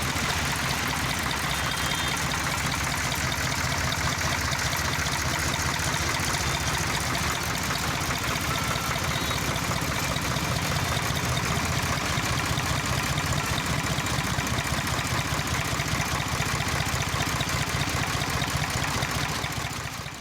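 HMT 3511 tractor's diesel engine idling steadily, running smoothly with its injection pump's spill-cut timing freshly set to 20 degrees; it fades out near the end.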